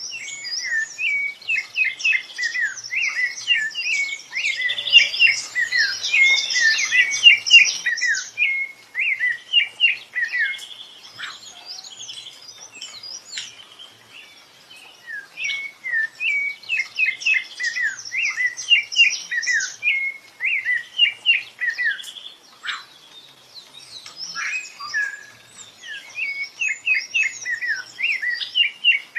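Rufous-bellied thrush (sabiá-laranjeira) singing: long runs of quick, sweeping whistled notes, the busiest stretch in the first eight seconds, with brief lulls about halfway through and again near the end.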